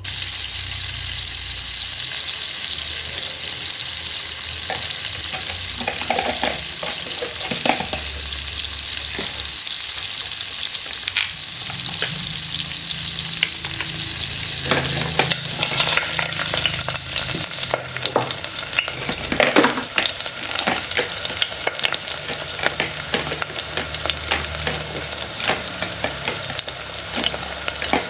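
Food frying in a miniature pan, a steady sizzle with crackles and scattered clicks of stirring that grow busier about halfway through.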